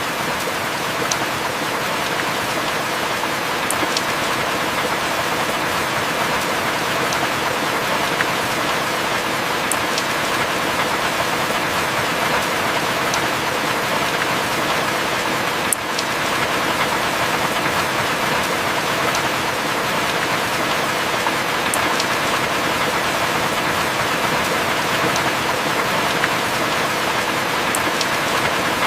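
Steady heavy rain, with a few sharp drip ticks every few seconds.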